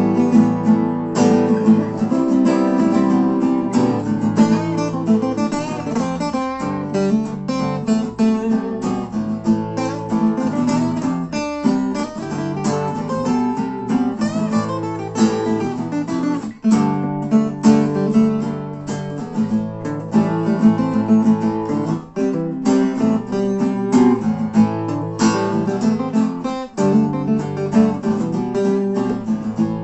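Acoustic guitars strummed steadily: an instrumental passage of an Americana-style song between sung verses.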